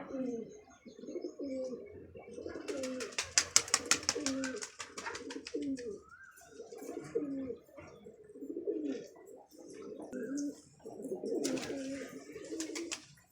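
Domestic pigeons cooing over and over in low, rolling calls. Twice a rapid run of clicking cuts across the coos, once a few seconds in and again near the end.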